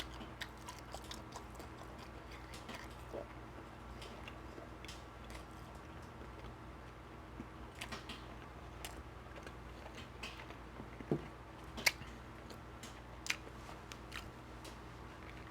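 A person chewing food close to the microphone, with scattered wet mouth clicks and smacks, a few louder ones about eleven to thirteen seconds in, over a faint steady low hum.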